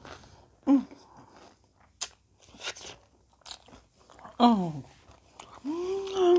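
Close-up chewing of crunchy nacho tortilla chips, with a few sharp crunches. Two short voiced "mm" sounds falling in pitch come from the eater, and a hummed "mmm" starts near the end.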